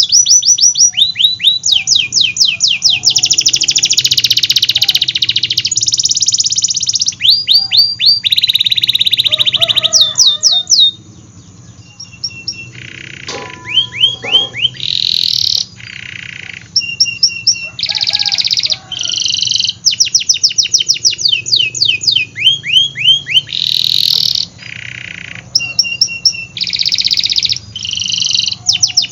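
Domestic canary singing a long, loud song of fast trilled rolls: rapid runs of repeated sweeping notes alternating with buzzy, rattling phrases, with a short lull about eleven seconds in.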